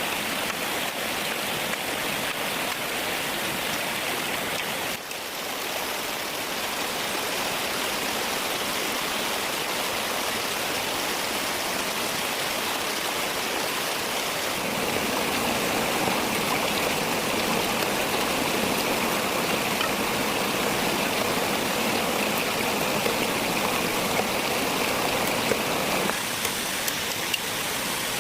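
Steady rushing of running water. It dips briefly about five seconds in, gets louder from about halfway and drops back near the end, with a few faint ticks.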